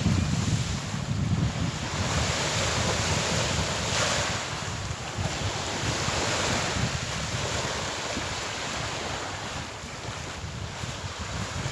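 Sea waves breaking and washing on the shore in a continuous surf that swells and ebbs every few seconds, with a low wind rumble on the microphone that is strongest near the start.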